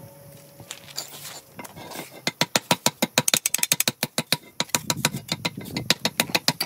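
Fast run of sharp, hard taps, about seven a second, starting about two seconds in after a few scattered knocks.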